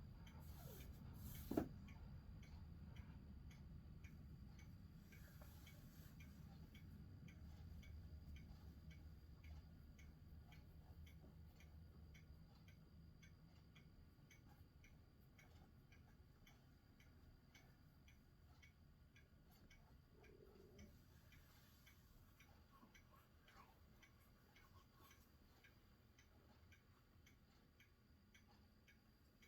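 Faint low rumble of distant thunder, slowly dying away over about a dozen seconds, with one sharp click about a second and a half in and a faint, even ticking underneath.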